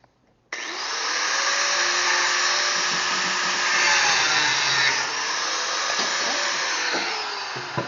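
Angle grinder with a zip-cut wheel cutting steel pipe: it starts abruptly about half a second in and runs loud and steady, its motor pitch wavering under load, then dips near the end with a knock as it winds down.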